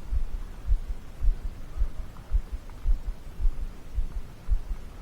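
Soft, irregular low thumps, several a second, from movement and handling against a chest-mounted microphone.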